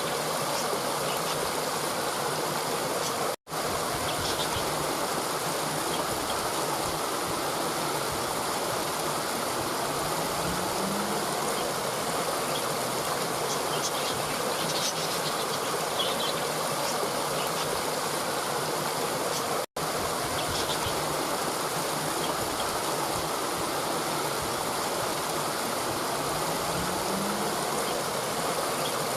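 Steady rushing water of a flowing stream, with faint high chirps over it. The sound cuts out for an instant twice.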